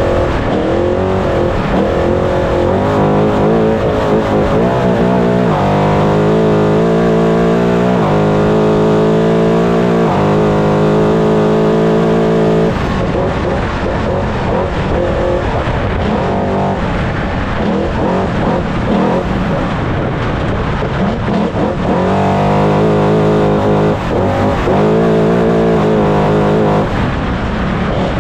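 Trophy Truck engine running hard under racing load, heard onboard. The engine note holds high for several seconds at a time, then breaks up and picks up again, over constant wind and terrain noise.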